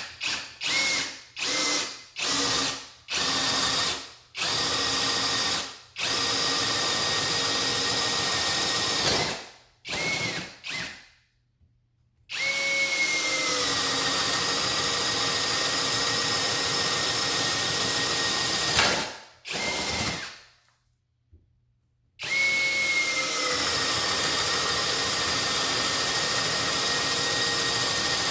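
Skil PWRCore 20V brushless cordless drill driver spinning freely with a steady whine. There are several quick trigger pulls first, then three long runs of a few seconds each, and the pitch dips slightly just after each long run starts.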